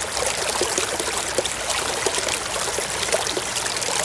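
Steady running water trickling and splashing as a mud-covered toy auto rickshaw is rinsed.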